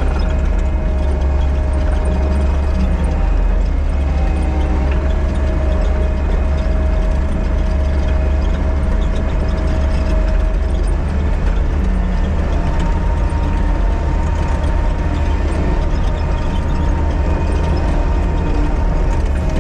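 A heavy diesel earthmoving machine running steadily under load, a deep engine rumble with mechanical clattering and rattling over it.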